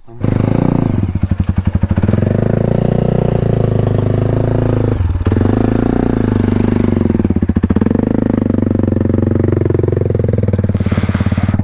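Motorcycle engine revving hard and unevenly, its pitch rising and falling over and over with a couple of brief dips, as the bike is worked in deep mud with its wheels jammed. It comes in suddenly right at the start.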